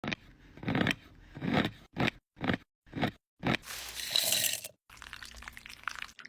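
A series of crunching strokes, about seven in quick succession, followed by a hiss lasting about a second and then fainter crackling.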